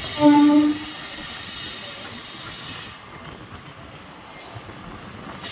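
A train horn sounds once, briefly, just after the start, over the steady running noise of a passing train with a high-pitched whine.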